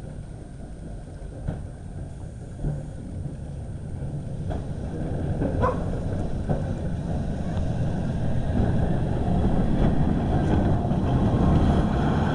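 Heritage electric tram running on the museum track, a low rumble with a few clicks that grows steadily louder as it approaches.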